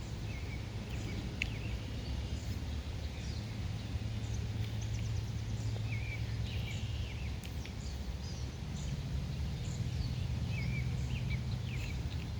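Many small birds chirping and trilling in short calls throughout, over a steady low rumble.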